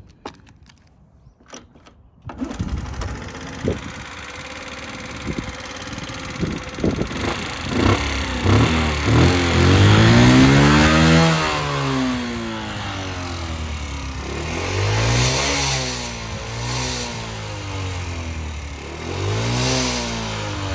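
Honda Super Cub C50's small single-cylinder four-stroke engine starting about two seconds in, then running, and being revved up and back down several times with the pitch rising and falling. It runs and revs freely, as a start-up check that the engine works.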